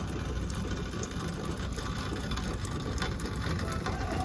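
Outdoor noise with a low wind rumble on the microphone and many small scattered crackles and ticks.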